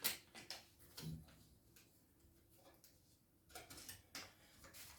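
Faint handling noises: a sharp click at the start, then a few scattered light clicks and taps.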